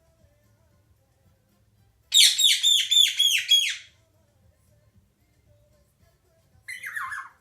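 Baby Indian ringneck parrot squawking: a loud, rapid run of about seven harsh calls, each dropping in pitch, then one shorter falling squawk near the end.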